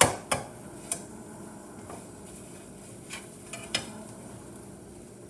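Eggs cooking in a frying pan: a utensil clicks and scrapes against the pan as they are stirred, with sharp taps near the start and a couple of lighter ones later, over a faint steady sizzle.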